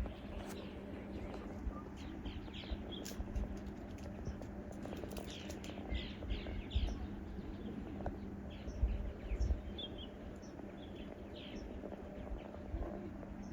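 Small birds chirping in short, quick, falling notes, scattered throughout. Under them run a low uneven rumble and a faint steady hum.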